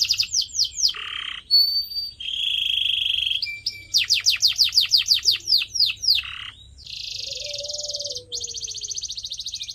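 Canary singing a varied song: fast runs of repeated sweeping notes, a short buzzy rattle, a held whistle and quick rolling trills, each phrase lasting a second or two before the next begins.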